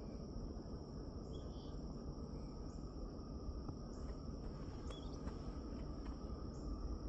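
Insects trilling steadily in a high thin tone, with short higher chirps every second or so, over a low even rumble.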